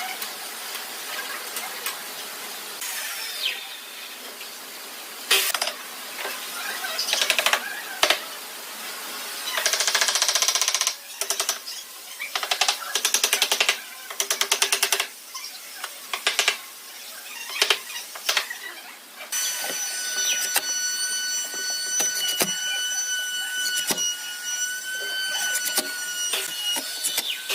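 Woodworking tools at work: a run of short, uneven rasping bursts, then, about two-thirds of the way in, a steady high whine like a small power tool's motor running.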